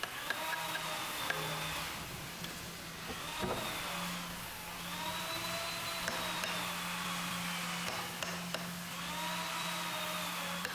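High-speed electric power tool motor whining in several long swells, its pitch arching up and down as it works the wood, over a steady low machine hum.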